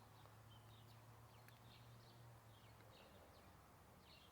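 Near silence, with faint, short small-bird chirps repeating in the background and a faint low hum that fades out about three seconds in.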